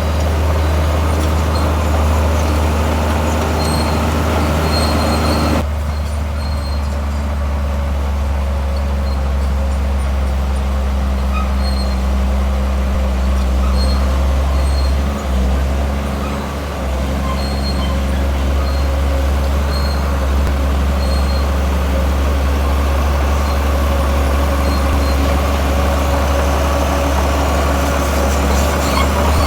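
Heavy earthmoving machinery's diesel engine running, a steady, deep drone.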